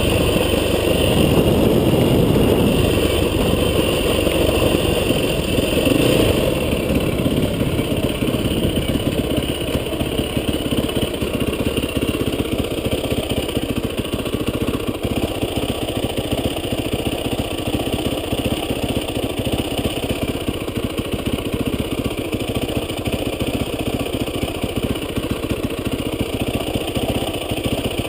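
An off-road vehicle's engine running, working harder for the first several seconds, then settling to a steadier, quieter run.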